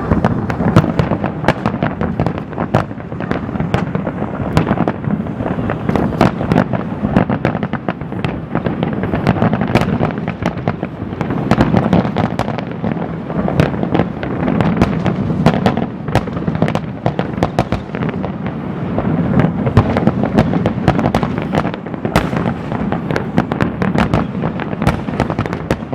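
Fireworks display going off in a dense, continuous barrage: rapid crackling and many sharp bangs over a constant booming rumble.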